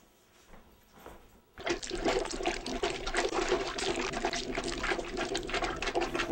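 Toilet flushing: water rushing, starting suddenly about a second and a half in.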